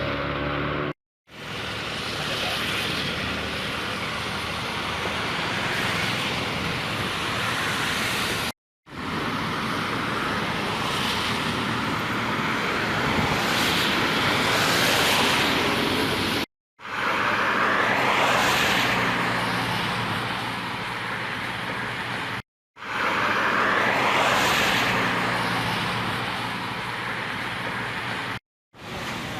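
Storm wind and rain in strong gusts that swell and ease, heard in several short clips cut together with abrupt breaks.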